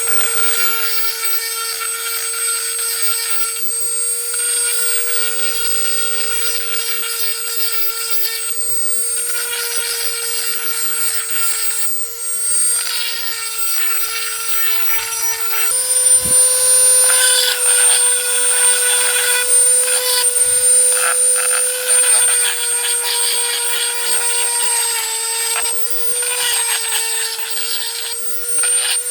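Small high-speed electric power tool running steadily with a constant whine, rasping against the rusty iron horseshoe as it cleans it. Its pitch steps up slightly about halfway through.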